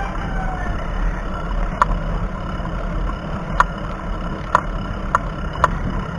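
Wind and road rumble on a chest-mounted action camera while riding a bicycle, steady and low, with a handful of sharp clicks at irregular moments.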